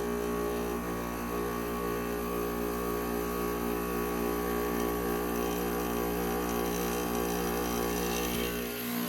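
A 1996 Whirlpool window air conditioner running just after start-up, its fan and non-reciprocating compressor giving a steady hum. Just before the end the hum dips for a moment, then comes back louder.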